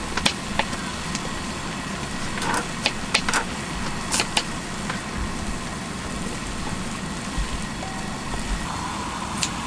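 Steak and vegetables sizzling on a gas-fired griddle, a steady hiss with the burner running under it, broken by scattered sharp clicks and knocks, a few in the first half and one near the end.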